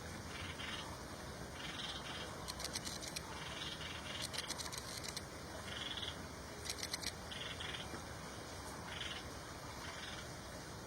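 Outdoor animal calls: short chirping calls repeating about once a second, with a few brief bursts of rapid, high-pitched clicking.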